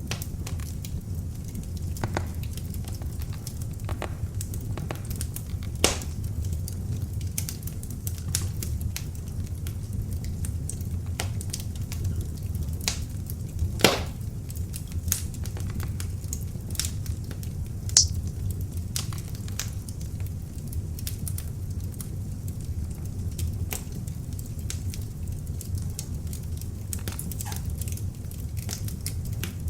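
Beech-log fire burning in an open fireplace: a steady low rumble of the flames with frequent sharp crackles and pops, three louder snaps about 6, 14 and 18 seconds in.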